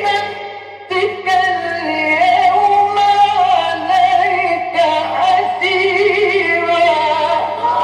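A man's voice in melodic Qur'an recitation: long, ornamented held phrases in the mujawwad style, resuming after a short breath about a second in. A steady low hum from the old recording lies underneath.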